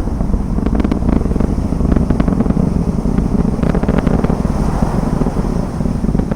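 Distant roar of a SpaceX Falcon 9 rocket's engines during ascent: a steady low rumble with crackling.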